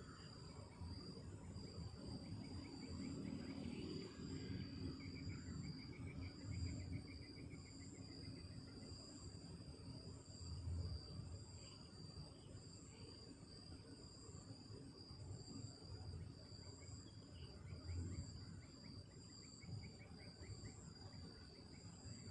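Night insects calling together: one holds a steady high trill while another pulses about twice a second, with short chirping trills joining a few seconds in. Under them runs a low rumble that swells now and then.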